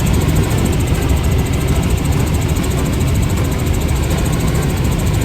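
Helicopter engine and rotor running at a steady, loud drone.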